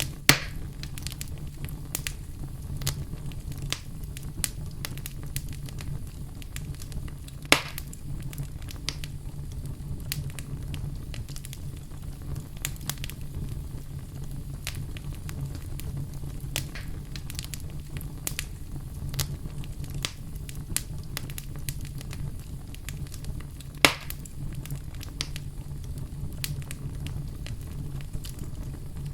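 Wood fire burning in a fireplace: a steady low rumble with frequent small crackles and three louder pops, one right at the start, one about a third of the way in and one near the end.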